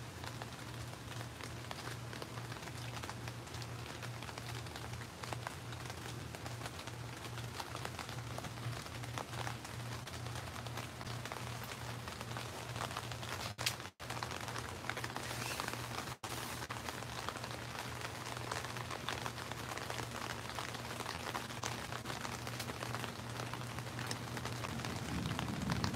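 Steady rain falling, an even hiss with a low hum underneath. The sound cuts out briefly twice around the middle, and a low rumble swells near the end.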